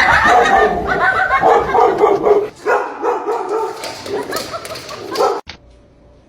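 A dog barking and yipping rapidly, then stopping suddenly near the end.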